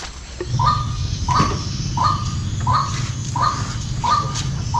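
A bird calling over and over, a short call about every 0.7 s, with a low steady hum underneath.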